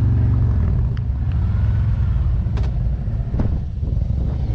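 Motorcycle engine running at low speed. Its note drops about half a second in, then it settles into a lower, uneven rumble, with a few faint clicks.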